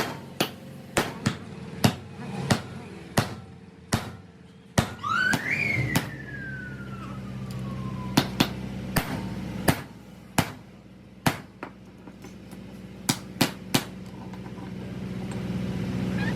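Hammer striking a steel wheel spanner socket, sharp metallic blows about once or twice a second, over a steady low hum. After about five seconds the blows pause, and a whine rises quickly in pitch and then slowly falls before the hammering resumes.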